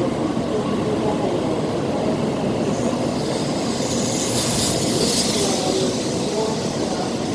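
Tokaido Shinkansen train pulling into the platform: a steady rolling rush, with a higher hiss swelling about four to five seconds in.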